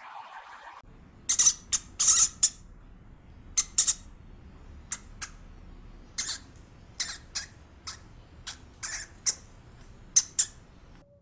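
A small animal giving about twenty short, sharp, high-pitched calls at irregular intervals, starting about a second in.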